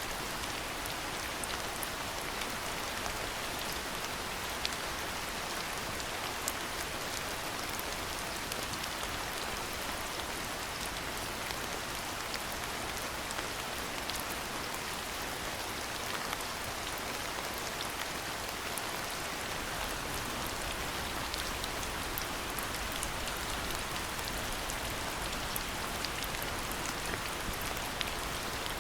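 Steady rain falling: a dense, even hiss full of small separate drop ticks. A low rumble joins about two-thirds of the way through.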